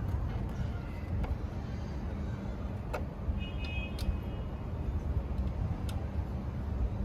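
Steady low background rumble with a few sharp metallic clicks and taps of tools and parts being handled, and a brief metallic ring about three and a half seconds in.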